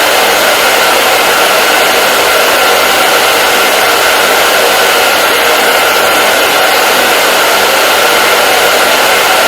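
Hair dryer running continuously, a steady loud rush of air with a faint constant whine from its fan motor.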